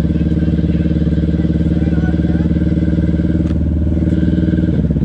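Can-Am off-road vehicle engine running close by at a steady speed. Its note drops and turns uneven near the end.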